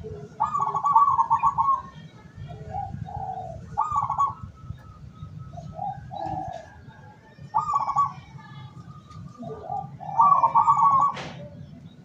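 Zebra doves (perkutut) cooing: four loud phrases, each a quick run of pulsed coo notes, with softer, lower coos between them. Faint chirps of small birds and a single sharp click near the end.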